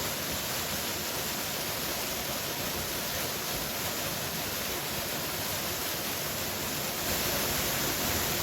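Steady rushing roar of a powerful waterfall, stepping up a little in level near the end.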